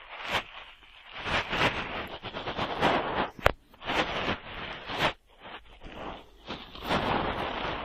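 Cotton swab rubbing and swirling inside an ear, binaural close-up: rough scratchy rustling in uneven strokes with a few sharp clicks.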